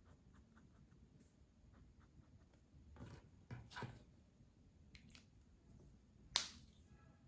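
Colouring on paper: faint scattered ticks and a few short scratchy strokes of a colouring tool, then one sharp click about six seconds in.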